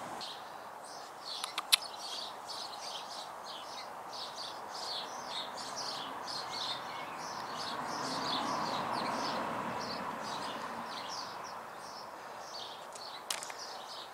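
Small garden birds chirping and twittering continuously over a steady background rush that swells midway. A few sharp clicks sound about a second and a half in and once more near the end.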